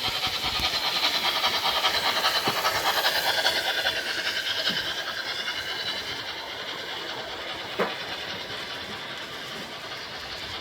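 H0-scale model train, a class 50 steam locomotive with a mixed military train, running on the track: a steady rolling rattle of wheels and motor that fades gradually from about the middle as the train moves away. A single sharp click comes near the end.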